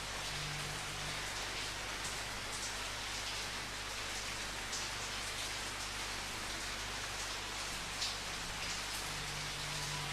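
Steady rain falling, with a few louder individual drops hitting a surface now and then.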